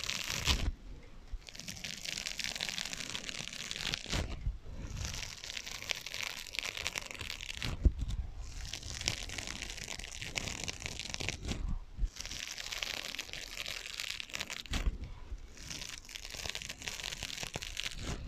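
Scratching on sponges: dense, crunchy scratching in stretches of a few seconds broken by brief pauses, played with an added echo effect.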